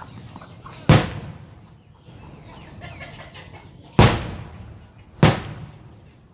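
Three sharp firecracker bangs: one about a second in, then two more a little over a second apart near the end, each dying away quickly.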